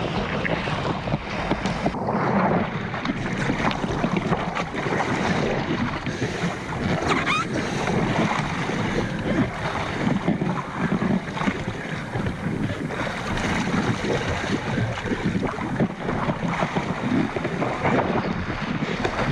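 Wind buffeting the microphone over the steady rush of water past a windsurf board under way at sea.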